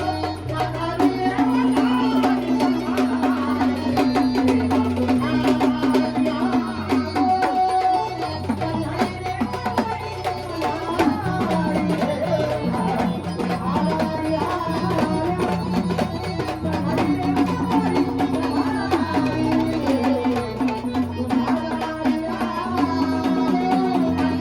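Marathi devotional folk music: hand drums of the tabla kind play a steady beat under a held low note and a wavering melody line.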